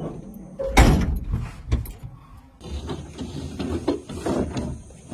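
Backhoe loader loading earth into a steel dump truck body: irregular heavy thuds and metal clanks, the loudest about a second in, over a low machine rumble.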